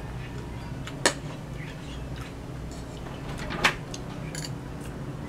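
Metal fork clinking against a ceramic plate while twirling noodles: two sharp clinks, about a second in and again after three and a half seconds, with a few fainter taps in between, over a steady low hum.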